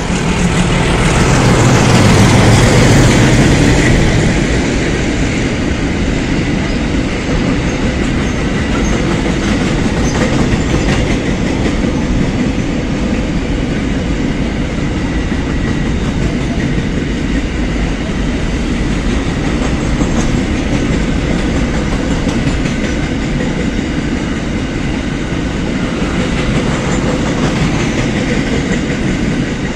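Diesel freight train passing close: the locomotive's engine rumble is loudest in the first few seconds, then the wagons roll by with a steady rumble and clatter of wheels over the rails.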